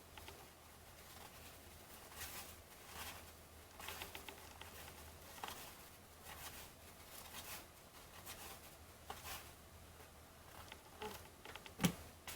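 Trading cards being handled and flipped through one at a time: soft, repeated swishes of card stock sliding over card, with a sharper tap near the end.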